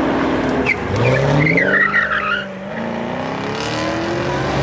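Porsche's engine revving hard through a donut, its pitch climbing, easing off and climbing again, with tires squealing briefly about two seconds in.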